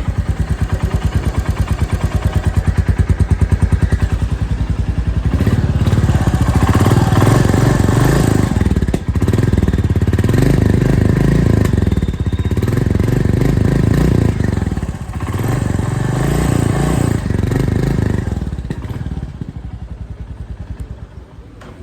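Royal Enfield Goan Classic 350's single-cylinder engine at the exhaust: a steady, evenly pulsing idle, then revved up three times in long pulls with short drops between, settling back to idle near the end.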